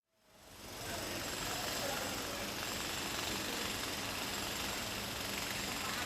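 Steady car engine and traffic noise, fading in over the first second and then holding level.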